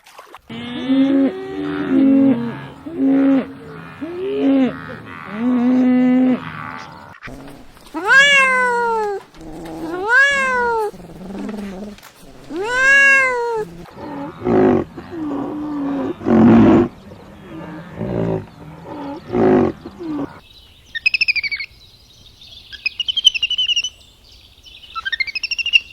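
A run of different animal calls. First come repeated short calls, then three long, loud cries that rise and fall, about two and a half seconds apart. Coarser, rougher calls follow, and high thin chirping calls close it out.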